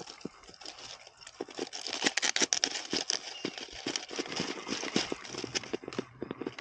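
Dry leaf litter, twigs and brush crackling and snapping in dense, irregular bursts, loudest a couple of seconds in, as something pushes through the undergrowth.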